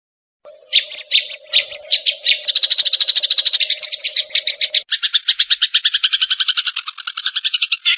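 Sparrows chirping in agitated fighting calls: a few separate chirps start about half a second in and quicken within two seconds into a fast, continuous chatter of about ten notes a second. A steady low hum lies under the first half and stops abruptly near the middle, where the chatter changes as if spliced.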